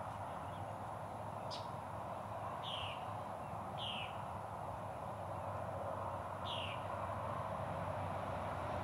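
A bird calling five times, each call a short falling whistle, over a steady even hiss.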